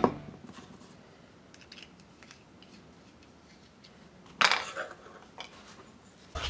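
Faint clicks and a short clatter of small hard objects being handled, loudest about four and a half seconds in.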